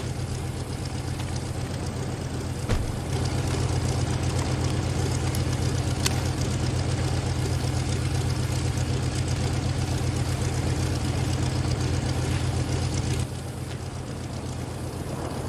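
Heavy diesel farm-machinery engine running steadily with a low drone, a single knock about three seconds in, and a sudden drop in level near the end.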